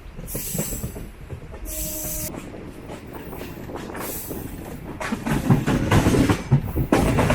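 MEMU electric passenger train running slowly on the rails, heard on board: a steady rumble with wheels clattering over the track and a brief wheel squeal about two seconds in. The clatter grows louder from about five seconds in as the train approaches Katpadi Junction.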